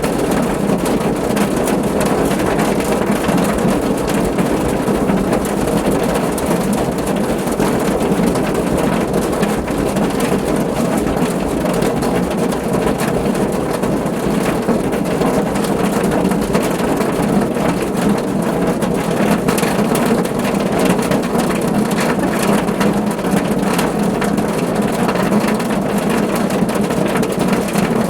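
Steady rain falling on a car's roof: a dense, even patter of drops with a low, full undertone.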